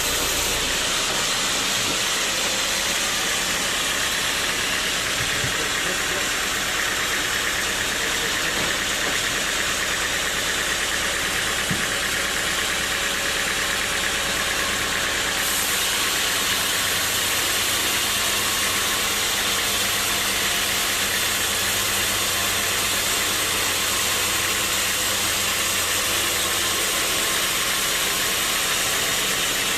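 Sawmill saw running steadily, a continuous loud machine noise with no breaks, cutting teak wood; its tone shifts slightly about halfway through.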